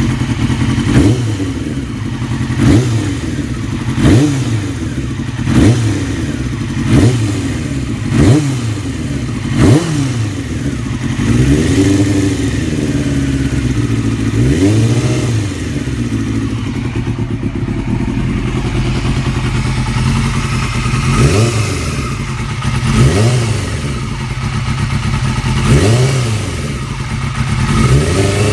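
2002 Yamaha R6 inline-four engine idling and being blipped, at first in quick revs about every second and a half, then in fewer, slower revs. Under it runs a ticking from the cam area that was there before the owner bought the bike; he hopes it is not the valves. The cam chain tensioner has been replaced with a manual one.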